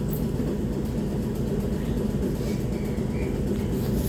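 Steady low rumble of a passenger train running between stations, heard from inside the carriage.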